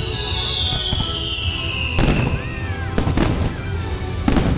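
Fireworks display: three sharp bangs of shells bursting, about a second apart, over show music playing through loudspeakers. A high whistle glides down in pitch through the first half.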